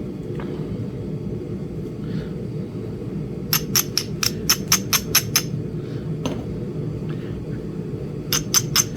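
Flintknapping taps: quick runs of light, sharp, ringing clicks, about four a second, as knapping tools tap against a small Flint Ridge chert biface, with one lone click between the runs. A steady low rumble lies underneath.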